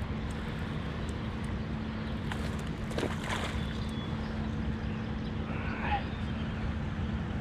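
Steady low rush of river water around a kayak, with a few faint clicks.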